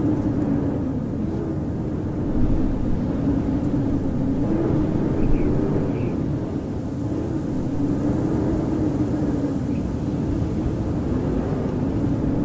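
Howling winter wind: a steady low rush with a hollow tone that wavers slowly up and down in pitch.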